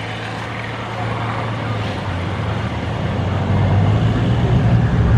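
A vehicle engine running at low speed, its low hum growing steadily louder, most sharply near the end.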